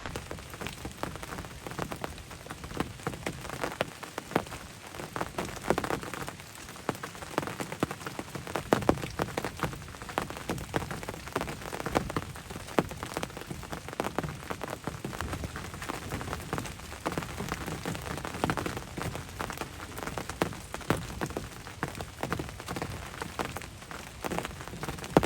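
Steady, constant rain pattering on the hunting ground blind and the ground around it, a dense unbroken patter of close drop hits.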